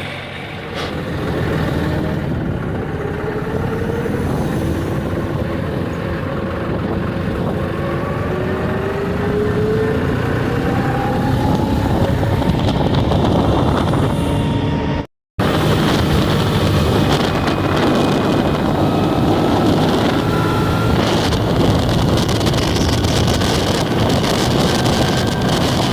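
John Deere 5039D tractor's diesel engine running on the move, its pitch rising slowly as it speeds up over the first half. It cuts out abruptly for a moment about halfway through, then carries on steady.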